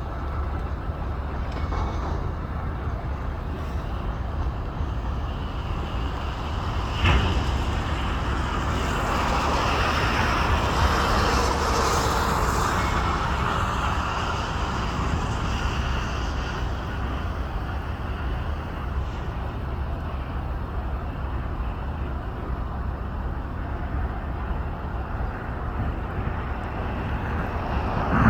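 Cabin noise of an Embraer E175LR airliner landing in heavy rain: its CF34 turbofans and the airflow make a steady rumble and hiss. About seven seconds in comes one sharp thump, and soon after the rush swells for several seconds before easing back to a steady roar.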